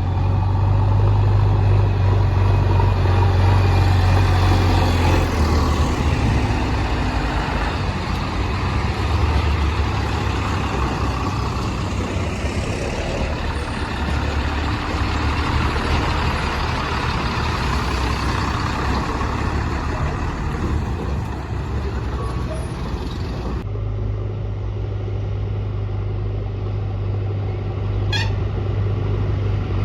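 Heavy diesel machinery engine running steadily and loudly, with a low hum and broad mechanical noise. The sound changes abruptly about three-quarters of the way through, then the engine runs on.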